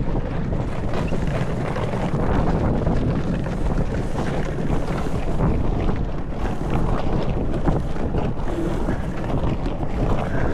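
Strong wind buffeting the microphone, a steady rumbling gust noise on an open sailboat deck.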